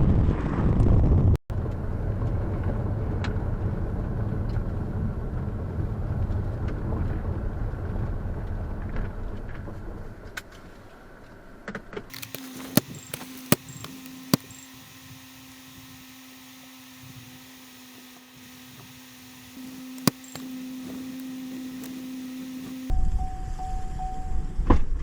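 Low rumbling noise of a vehicle in gusty wind, cut off abruptly about a second and a half in and then resuming. From about halfway it drops to a quieter steady hum with a few sharp clicks, and the loud low rumble comes back near the end.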